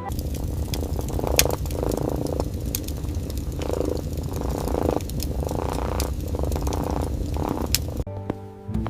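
A cat purring: a steady low rumble that swells and eases about once a second with its breathing, stopping suddenly near the end.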